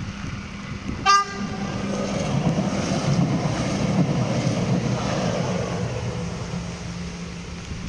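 A train's horn gives one short toot about a second in. The train then passes with a steady hum and a rushing noise that swells and fades.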